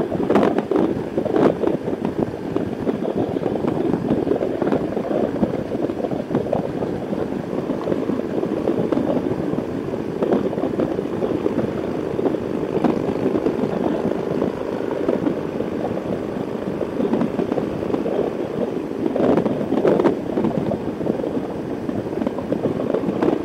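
Steady road noise of a Harley-Davidson Heritage Softail Classic's V-twin engine running under way, mixed with wind rush on a helmet-mounted microphone.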